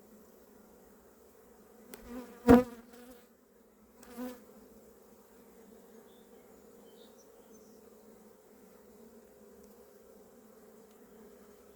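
Honeybees buzzing around an open hive: a steady, even hum. About two and a half seconds in comes a sharp, loud knock, the loudest sound here, and a softer knock follows a little under two seconds later.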